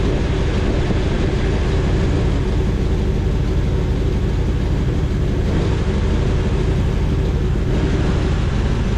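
Car engine running at a steady speed: a loud, even drone with no revving.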